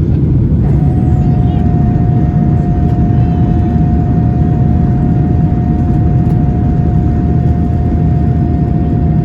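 Steady low roar of a Boeing 737-800's CFM56-7B jet engines and airflow during the climb after takeoff. A steady tone joins the roar about a second in.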